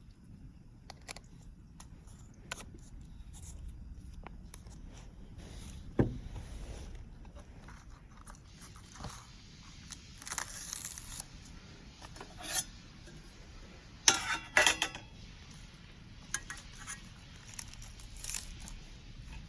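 Camp cookware and dishes clinking and knocking as food is handled, in scattered sharp clicks. There is one heavy knock about six seconds in and a burst of clattering around fourteen seconds.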